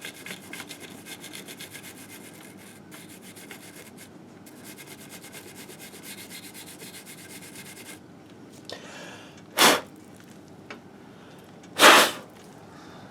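Hand-scrubbing of the grimy engine case of a 1958 Harley-Davidson Sportster, in quick, even rubbing strokes of about three or four a second, with a short break and stopping about eight seconds in. Then two loud short whooshes, about two seconds apart, the second longer.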